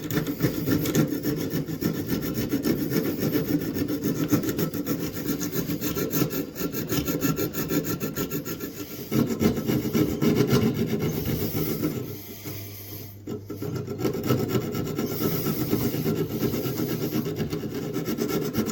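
Hand file rasping back and forth on the steel of a vintage pocket knife blade, taking down the protruding tip so it sits lower in the handle. Quick, even strokes, with a short pause about twelve seconds in.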